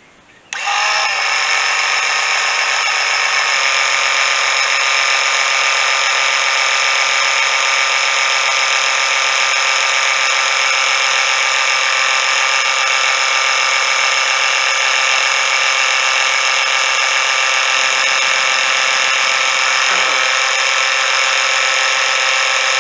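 Small motor-driven pump switched on about half a second in and running with a steady whine, pumping ballast fluid into a tractor tire through the valve stem.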